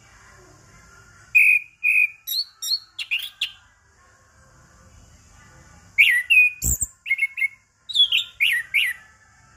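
Orange-headed thrush (anis kembang) singing: two bursts of loud, clear whistled notes and chirps, the first starting about a second in and the second about six seconds in. A single sharp knock sounds in the middle of the second burst.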